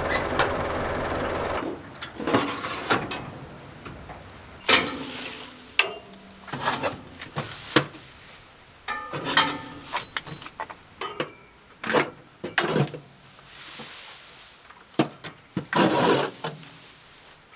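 A tractor engine runs steadily and stops about two seconds in. After that comes irregular scraping and rustling with light metal clanks as packed hay is pulled out of a round baler.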